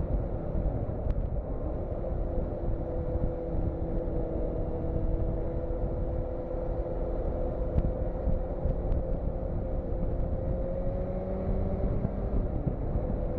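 Motorcycle engine running steadily under way, with wind rumble on the microphone; the engine note creeps slightly higher and then drops about twelve seconds in.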